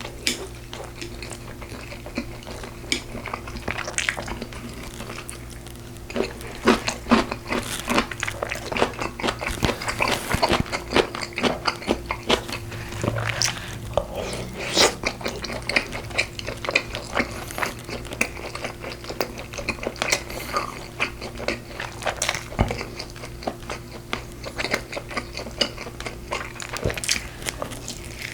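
Close-miked eating of braised pork ribs: chewing and mouth smacks, with occasional clinks of cutlery on a dish. The sounds come thicker and faster from about six seconds in, over a steady low hum.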